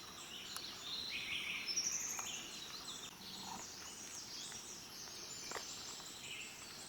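Several wild birds calling and singing at once: many short chirps and whistles overlapping, with a quick run of high notes about two seconds in.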